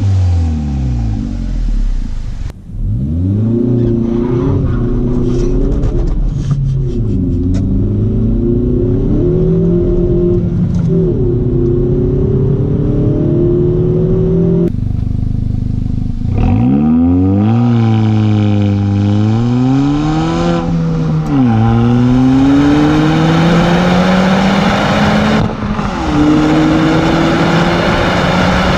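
Stock 2020 Kia Forte GT's 1.6-litre turbocharged four-cylinder, running through its factory resonator-and-muffler exhaust, revving up and falling back repeatedly across several short spliced clips.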